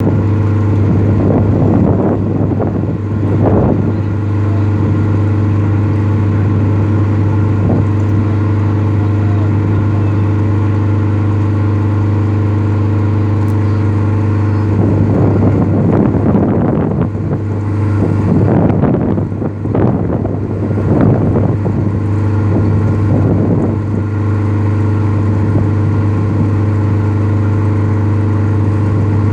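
A boat's engine running steadily: a loud, constant low hum with several steady tones above it. Rushing noise swells over it twice, near the start and again around the middle.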